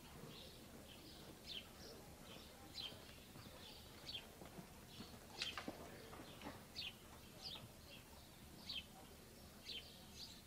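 Faint, repeated high chirps of a small bird, each a short note falling in pitch, coming every half second to a second, with one louder chirp about halfway through.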